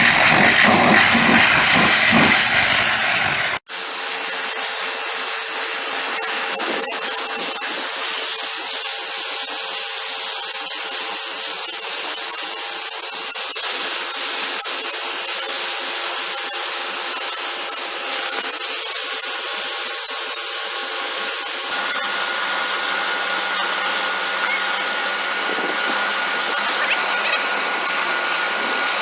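Pressure washer spraying water: a steady loud hiss with a thin motor whine. It follows a sudden cut about three and a half seconds in, before which a deeper, rougher noise plays.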